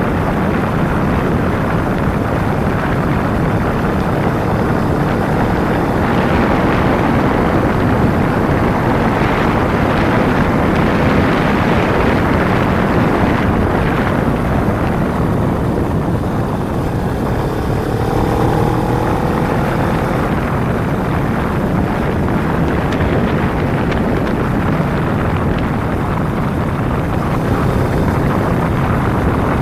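Kawasaki Ninja 250's parallel-twin engine running at road speed, mostly buried under steady wind rush on the microphone. A faint, slightly rising engine note shows through about two-thirds of the way in.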